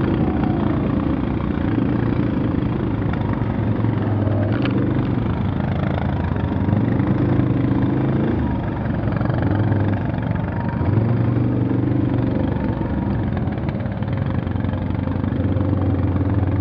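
Off-road vehicle engine running under load, its revs rising and falling several times.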